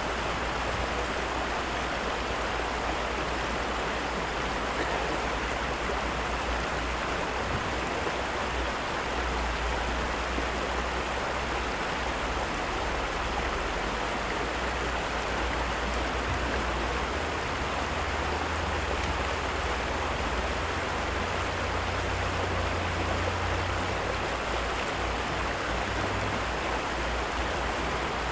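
Heavy rain pouring down: a steady, even rushing hiss, with a low, uneven rumble underneath.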